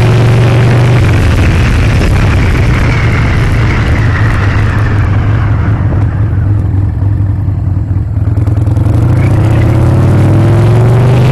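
Harley-Davidson Sportster's air-cooled V-twin running under way with wind rushing over the microphone. The wind noise drops away about midway as the bike slows, then the engine rises in pitch again near the end as it speeds up.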